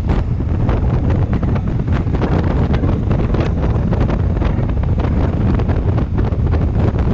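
Heavy wind buffeting the microphone of a moving motorcycle, a loud, constant rushing with irregular gusty thumps.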